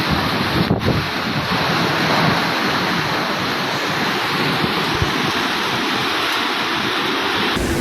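Cyclone wind and rain: a loud, steady rushing noise buffeting the microphone. The sound changes abruptly near the end.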